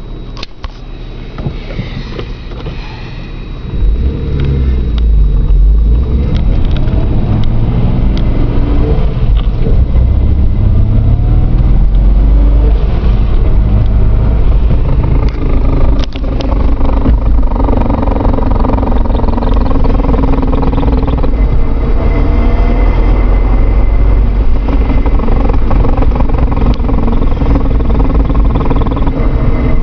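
Vehicle running with a loud low rumble that the owner places in the transmission area. It is quieter at first, jumps in level about four seconds in, climbs in pitch as it speeds up, then holds a steady loud drone.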